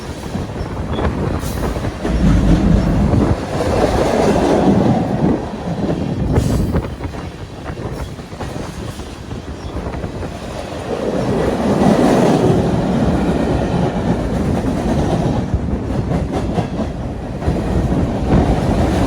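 Freight train cars rolling past at close range, wheels clattering over the rails in a continuous rumble that swells and eases as the cars go by.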